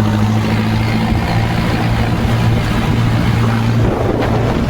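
Mahindra Novo 605 DI PS 4WD tractor's diesel engine running steadily while the tractor is driven along at a constant speed.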